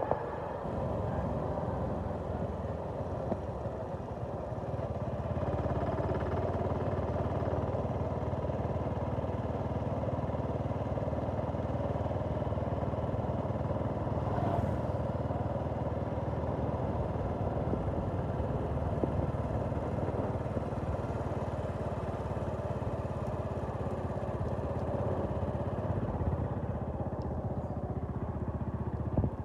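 A vehicle engine running steadily, with no breaks, while travelling along a road.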